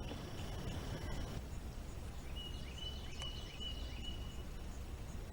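Steady low rush of swift river water. About two seconds in, a bird gives a short high call of a few quick down-slurred notes.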